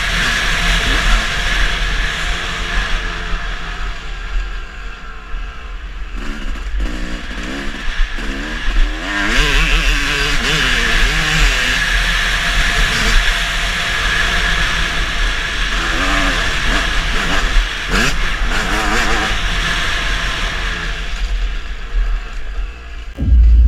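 Motocross bike engines revving up and down as they ride the track, the pitch rising and falling repeatedly. A sudden loud low rumble comes in near the end.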